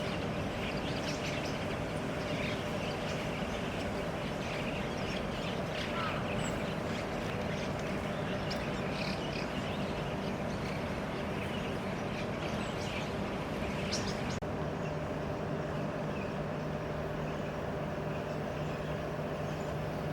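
Steady outdoor background noise with a faint hum and short high chirps scattered through. About two-thirds of the way in, the chirps stop and a deeper steady hum comes in.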